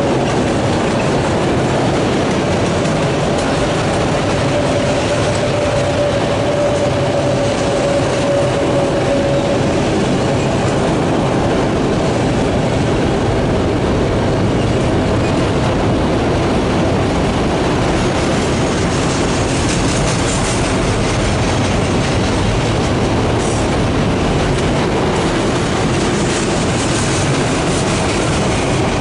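Freight train of autorack cars rolling past: a steady rumble of steel wheels on rail, with a thin steady wheel squeal over about the first ten seconds.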